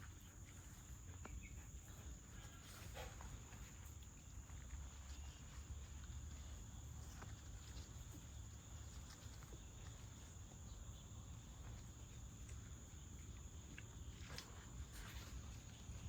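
Faint outdoor ambience: a steady high-pitched insect drone like crickets, over a low rumble with a few soft scattered clicks.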